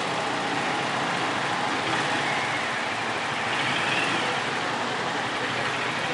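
Steady road-vehicle noise: a continuous rushing hiss with engine sound under it, and no single event standing out.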